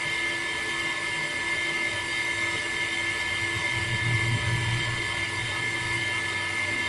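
Small electric motor running steadily with a constant high whine.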